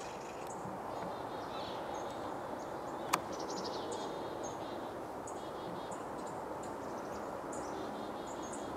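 Small birds chirping sporadically in short high calls over a steady background hiss, with one sharp click about three seconds in.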